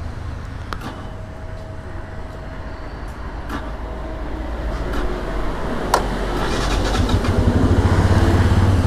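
Motorcycle engine running, most likely the rider's Bajaj Pulsar NS200, growing steadily louder through the second half, with a few sharp clicks.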